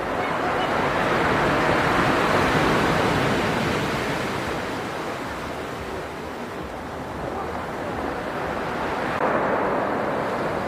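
Stormy sea surf, with two swells of wave noise: one building to a peak about two seconds in, the other near the end.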